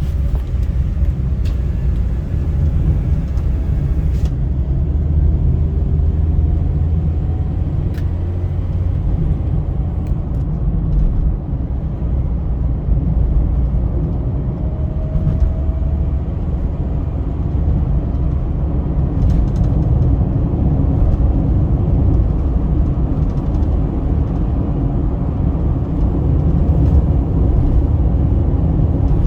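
Car driving at speed on a highway: a steady low rumble of road and engine noise.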